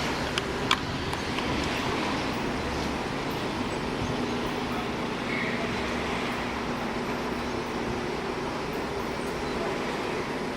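Steady rain noise from a thunderstorm, mixed with street traffic, with two sharp clicks less than a second in.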